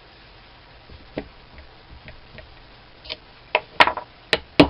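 Hammer tapping on a stuck part of an ENCO 1340 lathe's tool post to free a jammed pin. There is one light click about a second in, then a run of about five quick, sharp metal taps over the last second and a half.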